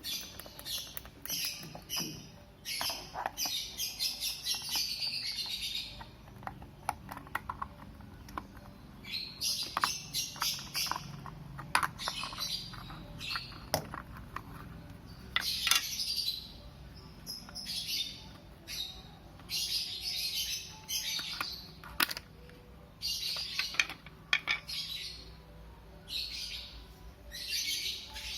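Small birds chirping in repeated bursts of high tweets, with scattered sharp clicks and taps.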